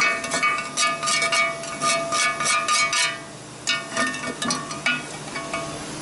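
Metal tool scraping and clinking against rusted sheet-steel tailgate metal, a quick irregular run of clinks and scrapes with a ringing tone, easing off briefly a little after three seconds in.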